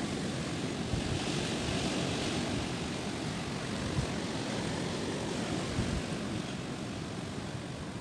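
Strong gusting wind roaring steadily, with low buffeting on the microphone and a swell of rushing noise about a second or two in.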